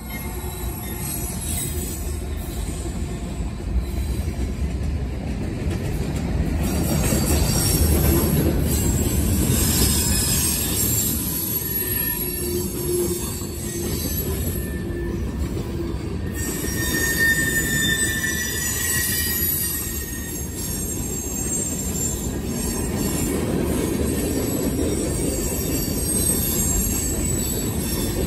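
Norfolk Southern freight train of tank cars rolling past: a steady, heavy rumble of wheels on rail, with thin wheel squeals now and then, one high squeal a little past the middle.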